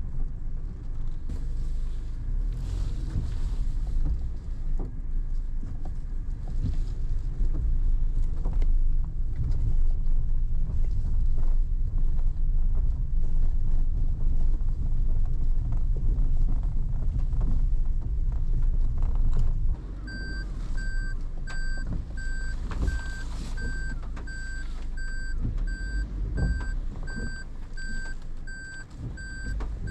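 A car's engine rumbles from inside the cabin. About two-thirds of the way in it quiets, and the car's warning beep starts sounding over and over, about one and a half beeps a second.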